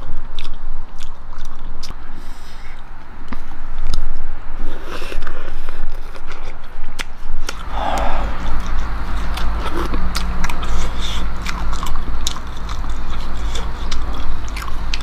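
A person chewing and eating close to the microphone, with many short, sharp mouth clicks and smacks. A low steady hum comes in about halfway.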